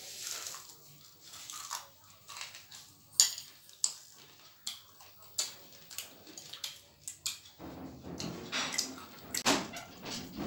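Two people crunching and chewing fried chicken pakoras, with sharp crackles and clicks scattered through. A whining sound joins in over the last three seconds.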